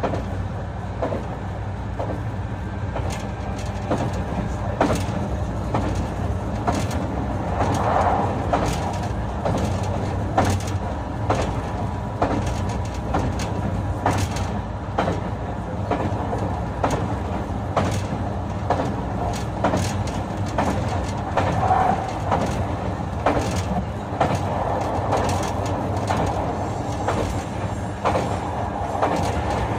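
Interior running noise of a JR West 221 series electric train at speed, recorded in motor car MoHa 221-66: a steady rumble of wheels and running gear, with repeated sharp clicks of wheels passing over rail joints.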